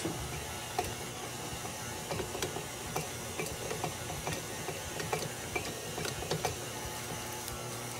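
KitchenAid stand mixer's motor running steadily as it works a very dry, stiff dough in the steel bowl, with irregular light knocks through the hum.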